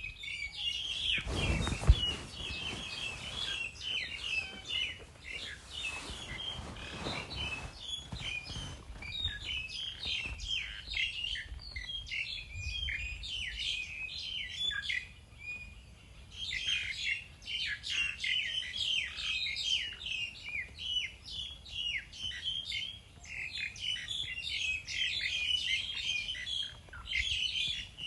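A flock of small birds chirping and twittering rapidly and without a break. A low rumble sits under the first couple of seconds, with a single sharp knock about two seconds in.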